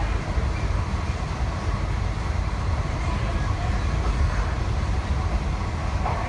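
Steady low rumble of a moving electric passenger train, heard from inside the carriage as it runs along the track.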